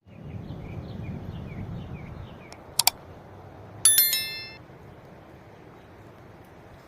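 A sharp double click, then about a second later a bright bell-like ding that rings out briefly. Before the click there is a faint chirp repeating a couple of times a second over a low rumble.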